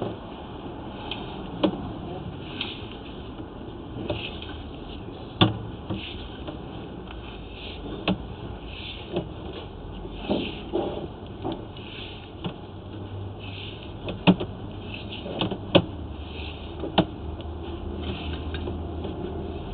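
Sewer inspection camera's push cable being pulled back through the line: irregular sharp clicks and knocks every second or so over a steady low hum that gets louder about two-thirds of the way through.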